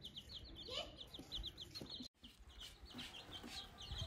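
Young chicks peeping: a fast, even string of short high peeps, several a second.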